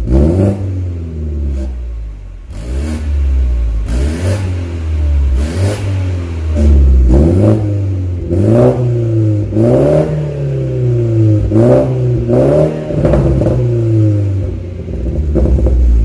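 BMW F30 320i's turbocharged four-cylinder engine being revved in repeated quick throttle blips through an aftermarket full-system valved exhaust. Each rev climbs and drops back, with a deep drone settling between them.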